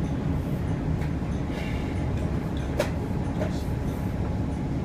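Steady low rumble of a transit vehicle in motion, heard from inside, with a faint click a little before the three-second mark.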